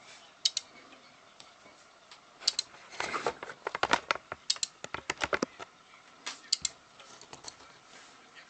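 Sharp clicks and taps of small hard objects being handled, scattered at first, then a dense flurry from about three to six seconds in.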